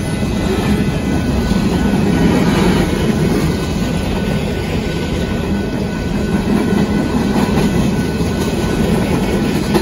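Coal hopper cars of a Union Pacific freight train rolling by at a grade crossing: a steady, loud rumble and clatter of steel wheels on the rails.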